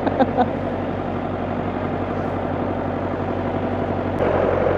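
International 785 tractor's diesel engine running steadily. About four seconds in, the engine note steps up and grows louder, as if revved or taking load.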